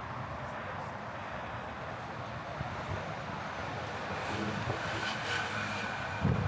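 Steady city street traffic: cars passing in a continuous rumbling wash, with a brief low thump near the end.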